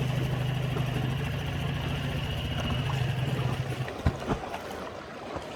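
Small boat's outboard motor idling steadily, then stopping about four seconds in, followed by a few short knocks.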